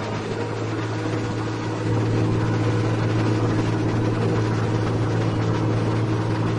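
Heavy diesel engine running steadily with a low, even drone, growing louder about two seconds in.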